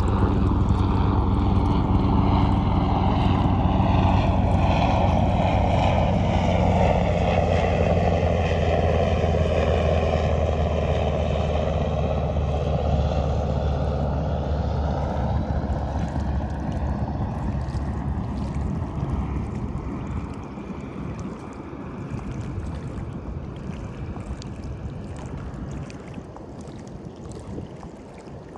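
Low-flying aircraft passing overhead: a loud engine drone with a steady low hum, its pitch sweeping down and back up as it goes over, then fading away over the second half, leaving faint surf.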